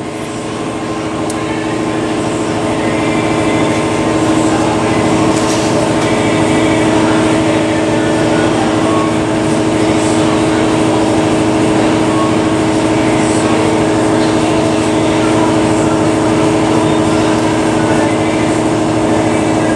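Air compressor motor running steadily under load with a constant-pitch drone, growing louder over the first few seconds and then holding, as it feeds the primer spray gun.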